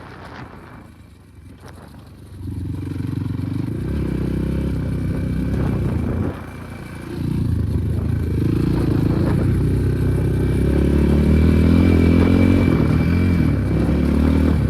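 Enduro motorcycle engine revving and accelerating with its pitch rising and falling. It is quiet for the first two seconds, picks up, eases off briefly around six seconds, then runs louder through the rest.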